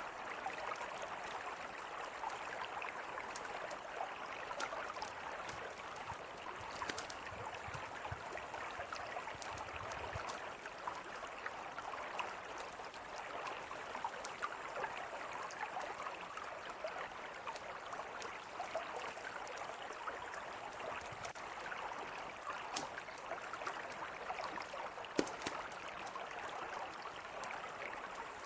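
Mountain river flowing steadily, with a campfire's sharp crackles and pops scattered through it.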